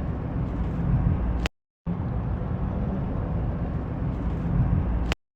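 Steady low rumbling noise with no clear tone, cut by two brief dead silences, about a second and a half in and again near the end.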